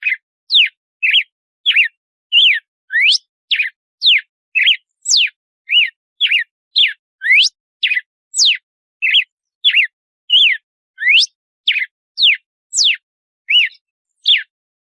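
Red-cowled cardinal (galo-de-campina) singing its 'açoite' song: a steady run of short, clear whistled notes, about two a second, each sweeping quickly up or down in pitch.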